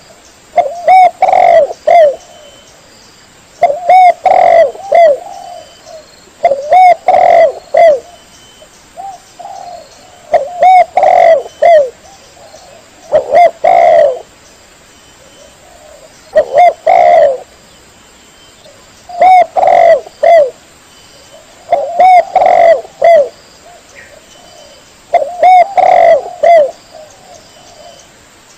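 Spotted dove (tekukur) cooing: a loud phrase of several short coos, repeated about every three seconds, as used for a bird-call lure recording.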